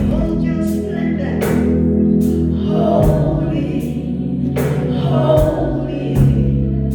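Gospel worship music: a choir singing over sustained band chords and bass, with sharp percussion hits about once a second.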